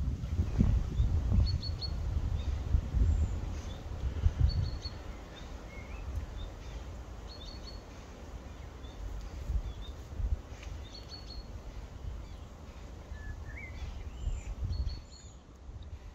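Small birds calling: a short, high, quick chirp repeated about every three seconds, with a couple of rising whistles, over a low rumble that is strongest in the first few seconds.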